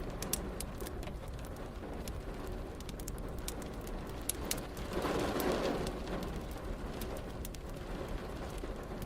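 Crackling fireplace, with frequent sharp pops and snaps, over a steady hiss of rain. About five seconds in, a low swell rises and fades within a second or so.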